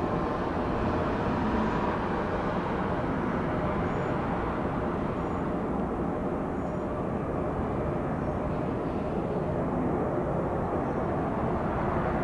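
Steady jet aircraft engine noise, an even rumble and hiss that holds at one level.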